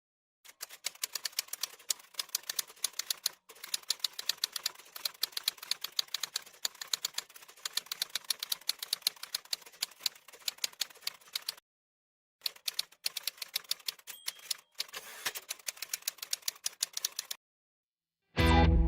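Rapid typewriter keystrokes clacking in irregular runs, broken by two short pauses.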